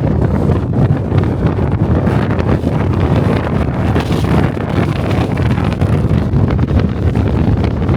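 Strong wind hitting the built-in microphones of a DJI Osmo Pocket 3 camera: a loud, low rumble that flutters without a break.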